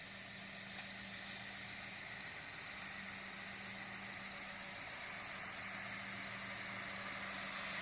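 Passenger train approaching slowly: a steady hum with a low steady drone, growing gradually louder.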